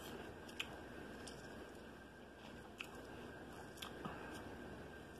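Someone chewing crisp raw jicama, quietly, with a few faint sharp crunches spread through.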